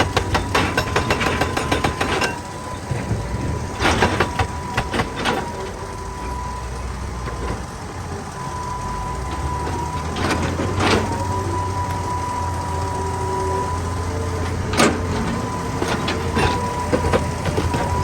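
Heavy excavator running, with a steady engine drone and a steady high whine. Over it come bursts of sharp knocking and clanking on rock: a rapid run in the first two seconds, shorter clusters around four and ten seconds in, and a single loud knock about three-quarters of the way through.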